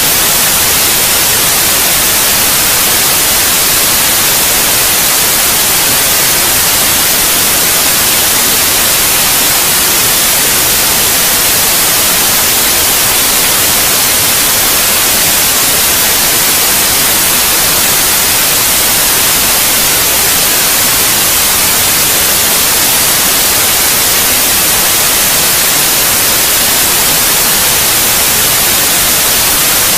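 Steady, loud white noise: an even, unchanging hiss, brightest in the treble, played as a sleep aid for babies.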